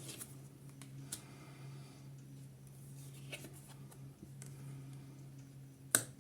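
Tarot cards being handled on a table: a few sharp clicks and taps, one at the start, another about a second in, one after three seconds and one near the end, over a faint steady low hum.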